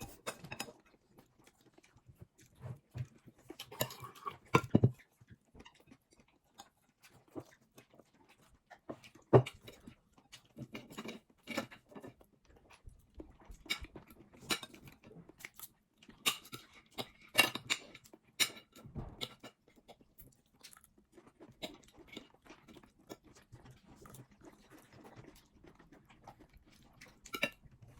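A person eating at close range: chewing and biting, with irregular sharp clicks scattered throughout.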